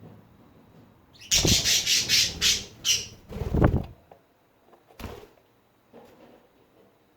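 Pet budgies making a loud, scratchy burst of rapid repeated sounds for about three seconds, then a single sharp click and a few faint rustles.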